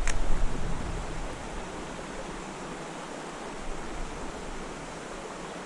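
Steady rushing hiss of flowing creek water, with a low rumble in the first second or so and a brief high swish right at the start.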